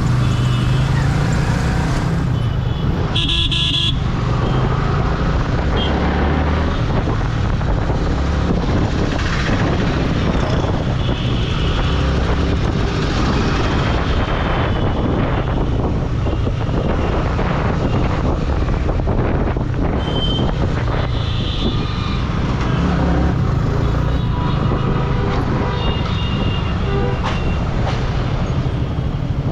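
Motorcycle riding on the road: steady engine and road rumble, with a vehicle horn blasting briefly about three seconds in and a few shorter horn toots later on.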